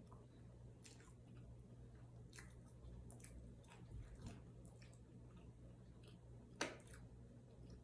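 Faint chewing and mouth sounds of someone eating a McDonald's spicy crispy chicken sandwich, with scattered soft clicks and one louder click about six and a half seconds in.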